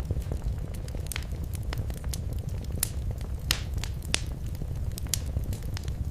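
Wood fire crackling and popping in a fireplace: irregular sharp pops over a low steady rumble of the flames, with a louder pop a little past the middle.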